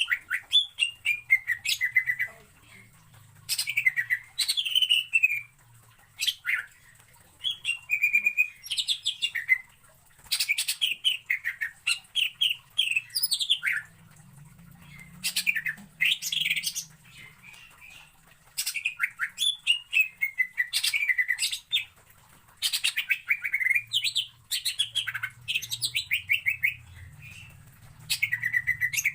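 Green leafbird (cucak ijo) singing in repeated bursts of fast, chattering notes, each phrase lasting one to two seconds, many sliding downward in pitch, with short pauses between phrases.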